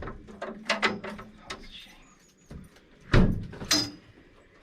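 A railway vehicle door being tried: a series of knocks and metallic clicks and rattles from the door and its handle, with one loud knock about three seconds in.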